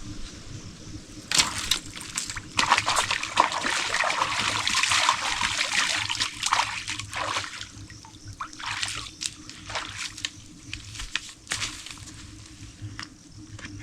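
Water splashing and sloshing in a small stream, starting suddenly about a second in, loudest for the next several seconds, then trailing off into scattered smaller splashes and drips.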